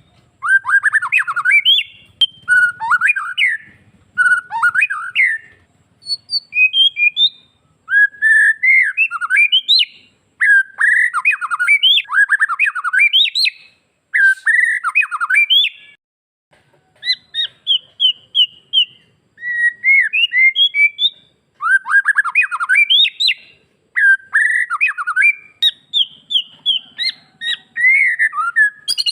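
White-rumped shama (murai batu) singing loud, varied phrases of sharp rising and falling whistles and rapid trills, each a second or two long with short pauses between.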